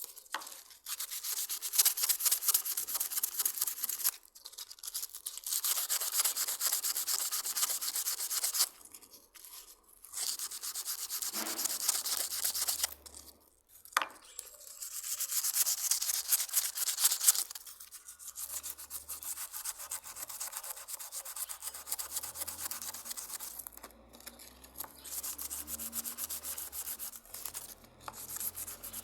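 Dry rasping rubbing strokes, like sanding. They come in runs of three to four seconds with short breaks, and grow quieter from about eighteen seconds in.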